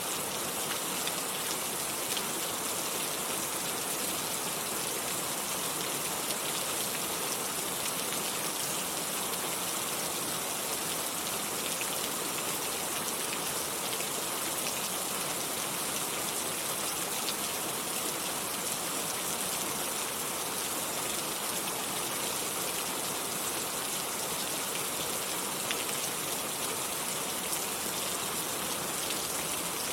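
Steady rain falling, an even hiss with scattered faint drop ticks; no thunder is heard.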